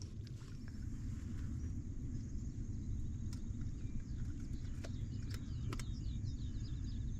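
Outdoor ambience: a steady low rumble throughout, with a bird singing a run of short, quick falling chirps from about halfway through, and a few sharp clicks.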